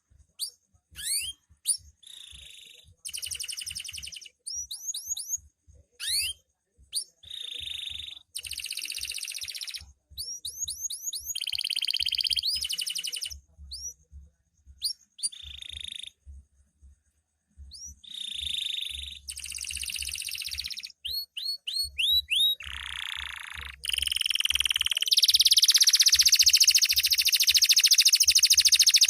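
Domestic canary (kenari loper) singing in bursts of fast rising whistled notes and rapid buzzy trills, with short pauses between phrases. Near the end the song turns into one unbroken, louder run.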